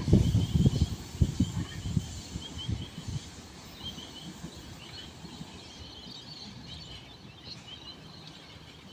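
Low gusty rumble, loudest in the first couple of seconds and then fading, with small birds chirping over and over in short high notes.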